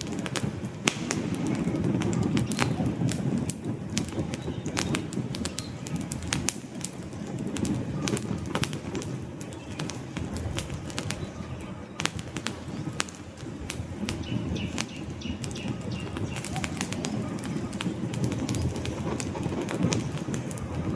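Wood fire burning in a fireplace, crackling with many sharp pops over a steady low rush of flames. A faint high whistle sounds for a second or two past the middle.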